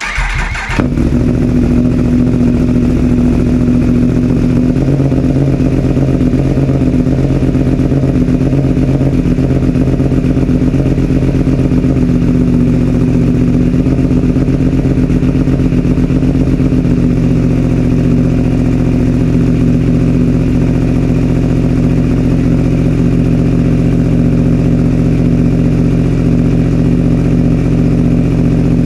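2021 Yamaha R1's inline-four engine, fitted with a Graves aftermarket exhaust, starting up. It catches within about a second and settles into a steady idle, the note shifting slightly a few times.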